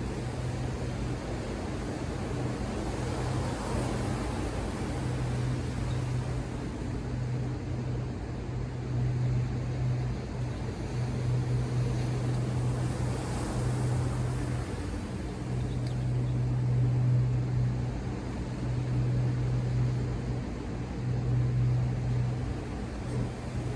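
Ocean surf washing steadily, with a low hum underneath that comes and goes in stretches of a second or two.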